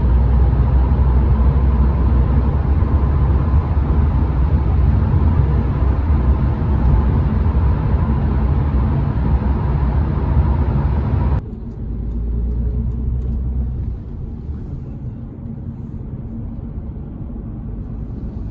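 Steady low rumble of a moving vehicle. It cuts off abruptly about eleven seconds in, giving way to a quieter, duller rumble.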